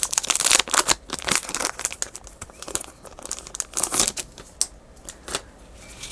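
Paper rustling and crinkling as pieces of paper ephemera are handled and sorted, busy for the first couple of seconds, then scattered and softer crinkles.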